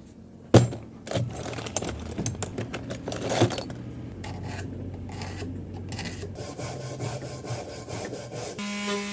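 Old varnish being rubbed off a wooden part by hand with an abrasive, in irregular strokes, with one sharp knock about half a second in. About half a second before the end, a steady hum begins.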